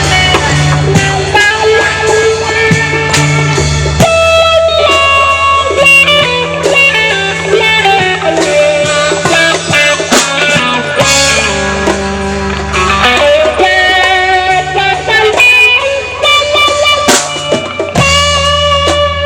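Live rock band playing an instrumental passage: guitar lines over a held bass line and drum kit.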